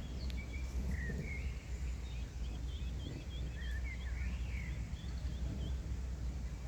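Small birds chirping in many short, quick rising and falling notes over a steady low rumble.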